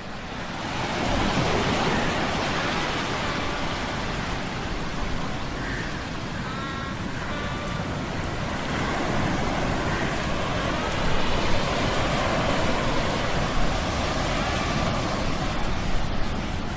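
Sea storm sound effect: a steady, dense roar of surf and wind that swells up about a second in. Faint pitched squeals show through briefly a few seconds later.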